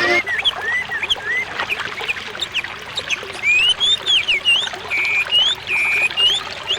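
A bird singing a rapid series of short whistled notes that swoop up and down, with two brief held notes near the end, over the steady trickle of running water.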